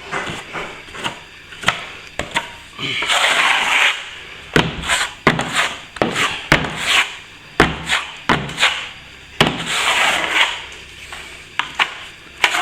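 Hand plastering tools working cornice cement into a wall crack: irregular sharp taps and knocks, with two longer scrapes of the blade across the wall, about three seconds in and again near ten seconds.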